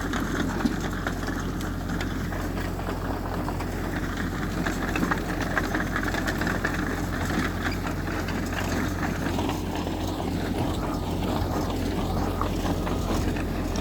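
Heavy earthmoving machine's diesel engine running steadily, a bulldozer or dump truck at work.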